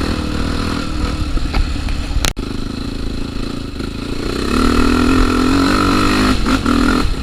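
Trail motorcycle engine running over a rocky stretch, with a sudden brief dropout a little after two seconds. About four and a half seconds in, the engine revs up and holds a louder, higher note.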